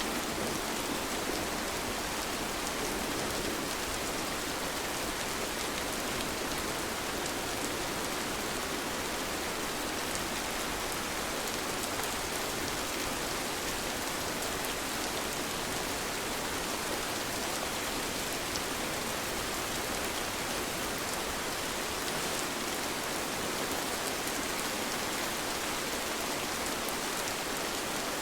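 Gentle rain falling steadily: an even hiss with faint ticks of individual drops.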